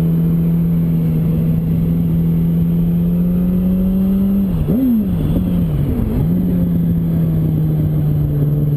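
Yamaha R1 inline-four engine running at steady revs that slowly climb. About halfway through, the revs drop and jump back up a few times, as the rider changes down for a tight corner, then run steady again. Wind rush sits underneath.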